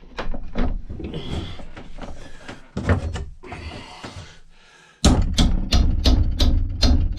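Metal clunks and knocks as an axe head is set and clamped in an old bench vise. About five seconds in, a louder, fast run of regular knocks starts, several a second.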